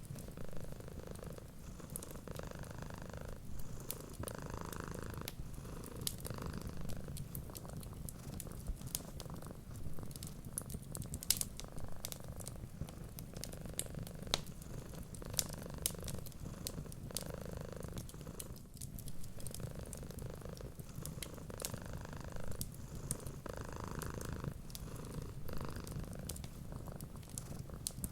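Domestic cat purring steadily and close, with a wood fire crackling and popping in sharp irregular clicks over it.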